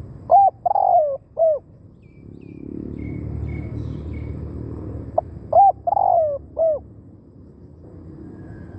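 Spotted dove cooing: two three-note phrases about five seconds apart, the middle note of each the longest. Faint higher chirps from another bird come between them.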